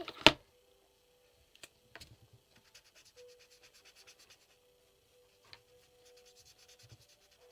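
A pen scratching back and forth on paper in quick strokes, colouring in a shape. There is a sharp knock just after the start, the loudest sound.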